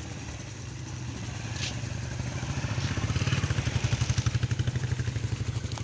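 Small vehicle engine running steadily with a fast pulsing beat, growing louder about three seconds in.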